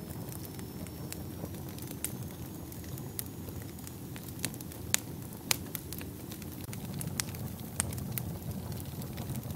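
Fire burning in a fireplace: a steady low rumble of flames with frequent, irregular sharp crackles and pops, two louder pops coming close together around the middle.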